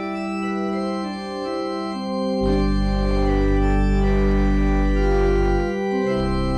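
Organ playing slow sustained chords. Deep bass notes come in about two and a half seconds in, drop out briefly near the end and return on a new note.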